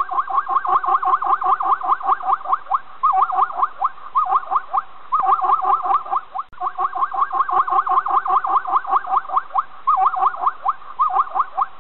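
An animal's rapid series of short, high, chirping calls, about eight to ten a second, in bouts with only short pauses, and a brief break about six and a half seconds in.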